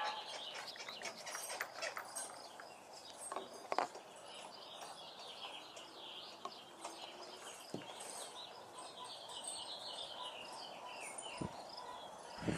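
Small birds chirping steadily in the background, with a few light clicks and taps scattered through.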